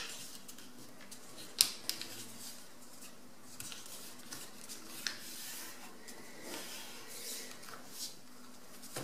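A sheet of A4 paper being folded by hand: paper rustling and sliding, with scattered sharp taps and creasing snaps. The sharpest comes about a second and a half in.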